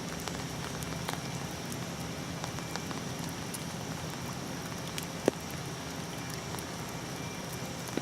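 Steady hurricane rain falling, with scattered drops tapping close by and one sharper tap about five seconds in.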